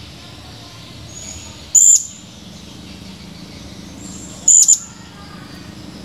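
Blue-crowned hanging parrot (serindit) giving sharp, shrill, high-pitched calls: one loud call about two seconds in and a loud double call near the end, each preceded by a fainter thin whistle, over a steady low background hum.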